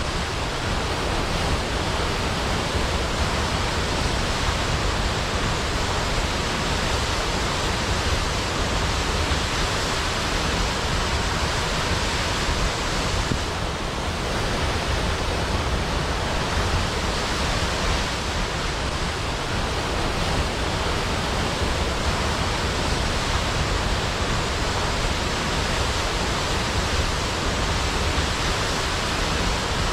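Large waterfall, water plunging into a pool with a steady, dense rushing.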